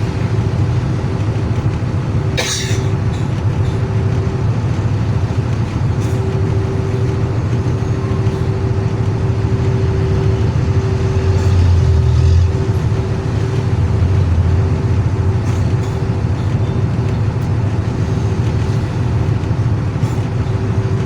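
Dump truck's diesel engine running steadily, a low rumble with a steady whine over it. There is a short hiss about two and a half seconds in.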